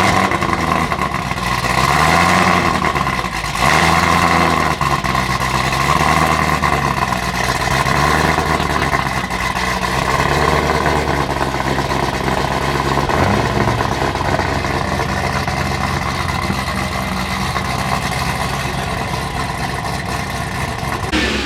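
Car engine starting and being revved in a series of blips, each rising and falling in pitch, then settling to a steady idle about halfway through.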